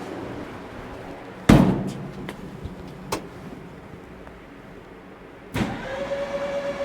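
A loud bang about a second and a half in and a couple of light clicks, then near the end a clunk as the starter of a freshly rebuilt air-cooled VW Bus engine engages and whines steadily for about a second, cranking the engine over to build oil pressure.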